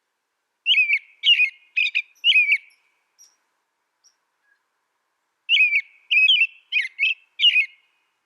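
A songbird singing two short phrases of clear, bending whistled notes, about five notes each and roughly two seconds long, the second phrase starting a couple of seconds after the first ends.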